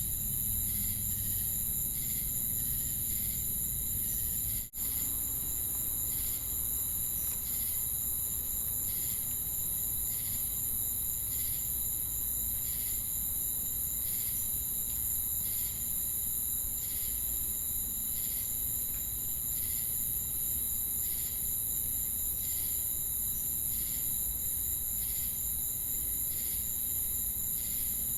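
Night insect chorus of crickets and cicadas: a continuous very high-pitched trill, with a slower chirp pulsing evenly about one and a half times a second. The whole chorus cuts out for an instant about five seconds in.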